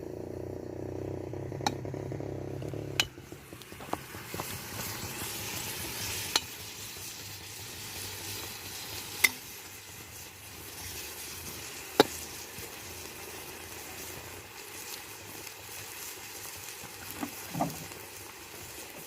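Food sizzling and frying in a kazan, with a few sharp metal clicks, like a utensil striking the pot, spread through it. A low steady hum runs underneath for the first three seconds, then stops suddenly.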